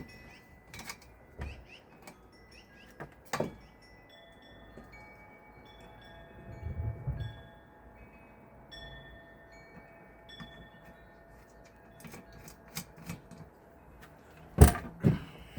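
Wind chime ringing, with several tones at different pitches sounding and ringing on. Scattered clicks and knocks come through, the loudest a sharp knock near the end.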